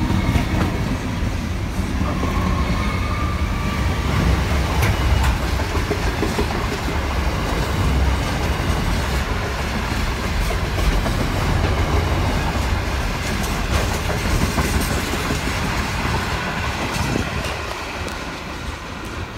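Container freight train of loaded flat wagons rolling past on the rails: a steady heavy rumble with scattered wheel clicks, easing off near the end as the last wagons move away. At the start the whine of a departing electric suburban train overlaps it.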